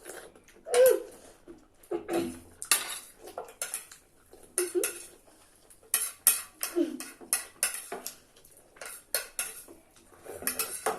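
Cutlery clinking and scraping against plates during fast eating, in many quick irregular clicks.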